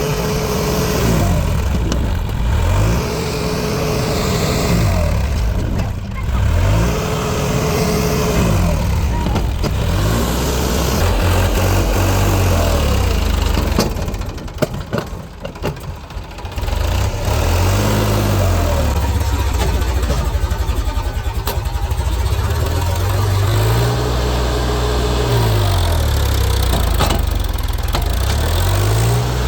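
A vehicle engine revving up and down over and over, each rise and fall lasting a couple of seconds. About halfway through it drops low briefly and a few sharp knocks are heard.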